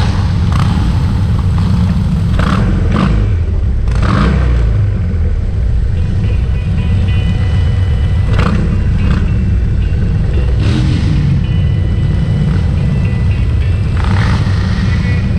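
A heavy, steady rumble of many motorcycle engines running together as a large group of motorcycles rides past.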